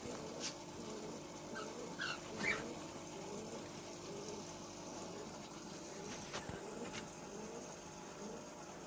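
Three short high calls from a small animal in quick succession about two seconds in, with a few faint clicks later on.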